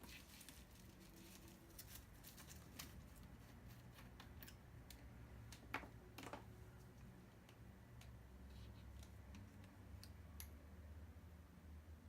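Faint scattered clicks and small taps of plastic parts being handled in an inkjet printer, with two sharper clicks about six seconds in, over quiet room tone.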